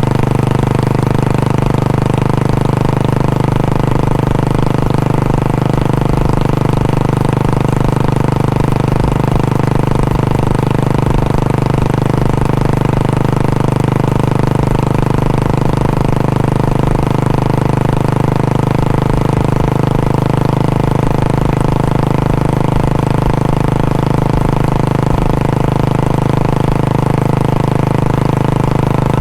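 Royal Enfield Bullet 500 single-cylinder four-stroke engine running steadily at idle through its stock exhaust, at an even, unchanging pitch.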